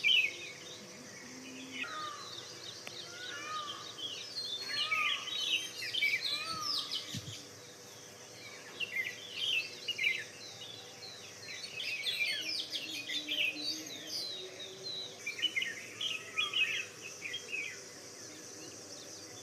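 Several birds chirping and singing at once, many short overlapping calls with a few lower arched whistles, over a steady high insect buzz that fades out near the end.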